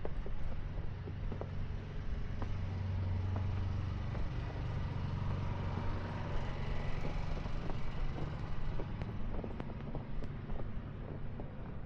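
Motor vehicle engine running close by with a steady low hum; in the middle a wider rush of traffic noise swells and fades as a vehicle passes.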